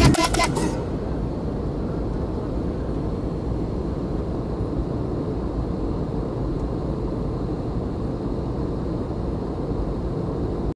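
Background music cuts off within the first second, leaving the steady low rushing noise of an aeroplane in flight, with a faint thin high whine above it.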